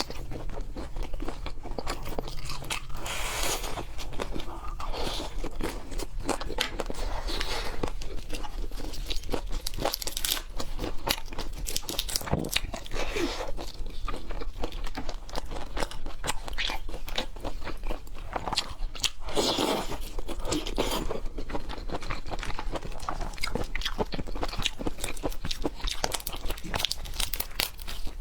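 A person biting and chewing crunchy food close to the microphone: dense, irregular crunching and wet chewing with no pauses.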